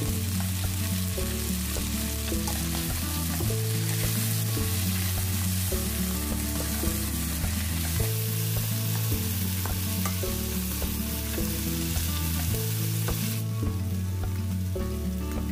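Chicken wing pieces and sliced onion sizzling in oil in a nonstick wok, stirred and turned with a silicone spatula. Background music with a stepping bass line plays throughout and is the loudest thing.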